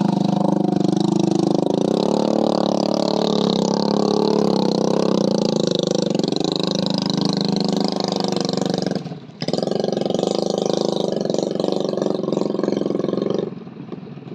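A vehicle engine running steadily, its pitch wavering slightly. The sound cuts out briefly about nine seconds in, and it drops to a lower level near the end.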